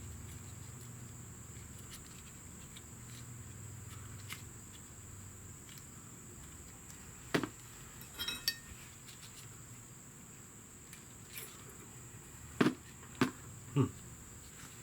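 Small metal brake-caliper parts being handled and fitted: scattered sharp metallic clicks and taps, a short ringing clink about eight seconds in, and three louder clicks in quick succession near the end. A steady faint high-pitched whine runs underneath.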